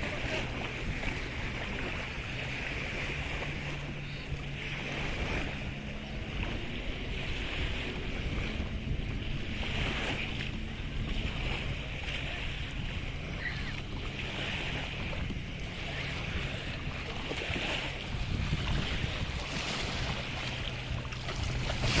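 Kayak on open water: wind buffeting the microphone and water splashing in swells every two to three seconds, with a steady low hum underneath.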